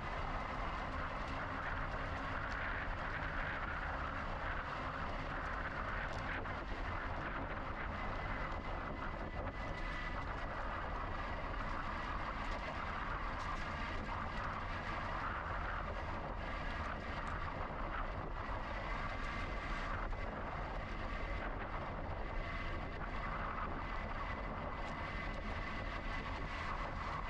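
Steady rolling noise of a moving electric bicycle: tyre hum and wind rush with a low rumble, unbroken throughout.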